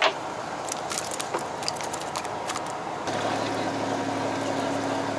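A few sharp clicks and knocks, then a steady motor hum that starts suddenly about three seconds in and holds.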